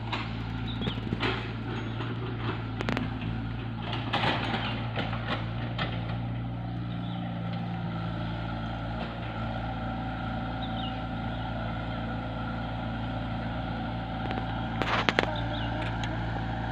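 An engine running steadily at a constant speed, with scattered knocks and clatters, the loudest cluster near the end.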